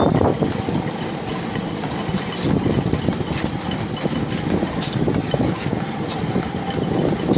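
Squid-fishing boat's engine running steadily, with a few light clicks scattered over it.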